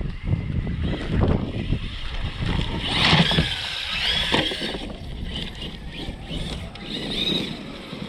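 M2C Jackhammer RC truck's Castle 1721 1260kv brushless motor whining as it drives, the high whine rising and falling and loudest about three to four and a half seconds in, over a steady low rumble.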